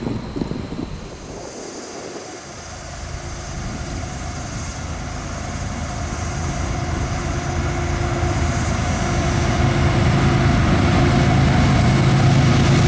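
Diesel locomotives of a CSX freight running as they approach, their engine drone and rumble growing steadily louder. At the start there is the rumble of a passing stack train, which cuts off about two seconds in.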